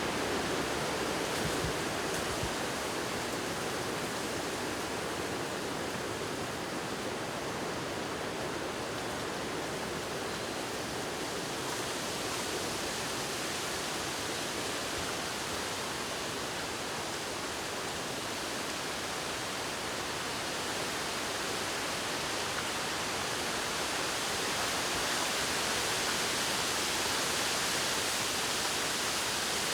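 Wind blowing through a bamboo grove, the leaves rustling in a steady rushing hiss that swells slightly near the end.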